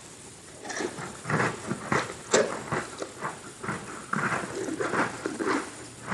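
Close-miked chewing of Halloween Oreo sandwich cookies with cream filling: irregular crunching and wet mouth sounds, starting about a second in.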